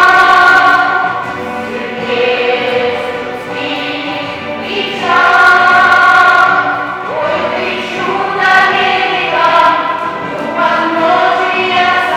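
A school vocal ensemble singing a song in chorus, with long held notes rising and falling between phrases.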